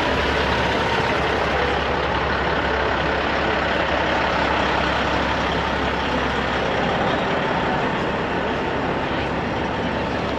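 Semi-truck diesel engines running with a steady low rumble under a dense wash of mechanical noise.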